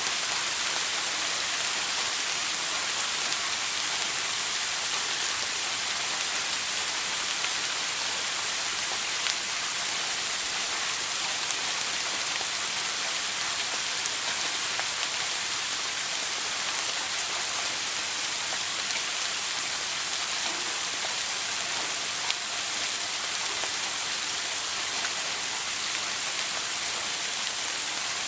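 Shower spray falling steadily, a constant high hiss of water streaming down with faint occasional droplet ticks.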